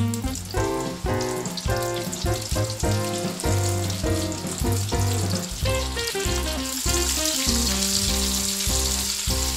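Flour-coated chicken pieces deep-frying in hot oil, a steady sizzle that grows louder about two-thirds of the way in as more pieces go into the pan. Background music with a steady bass beat plays throughout.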